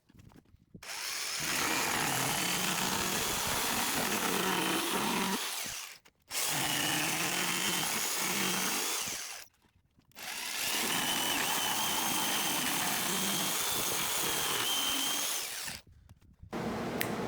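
A power tool running under load in three separate runs of a few seconds each, each one starting and stopping abruptly.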